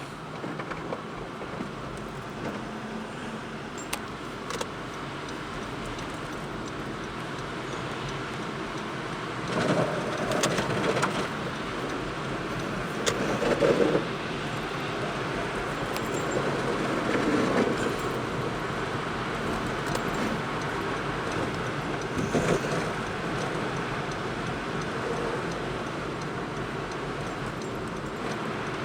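Car being driven on a snowy road, heard from inside the cabin: steady road and engine noise, with a few louder rough rumbles about ten, fourteen, seventeen and twenty-two seconds in, and some light rattling clicks.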